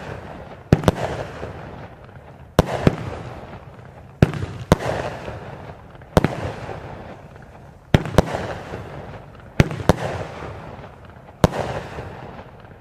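Vulcan 'Soul Crushers' 16-shot firework cake going off: sharp bangs, mostly in close pairs, about every two seconds, each trailed by a fading rush of noise. The last bang comes near the end and the sound then dies away.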